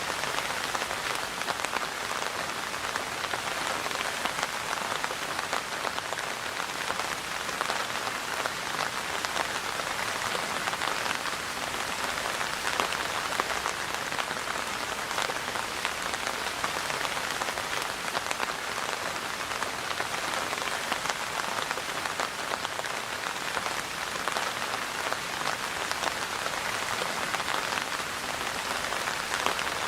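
Steady rain falling on a hard surface: a dense, even patter of many drops.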